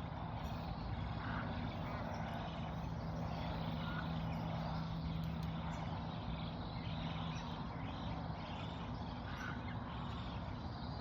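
Steady low motor rumble with a humming tone that fades slightly near the end, with a few short, faint bird chirps over it.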